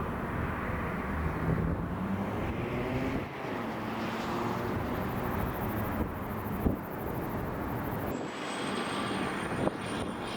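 Airliner's jet engines running as it moves past, a steady rumble whose engine tones rise and then sweep down in pitch a few seconds in. A thin high whine starts near the end.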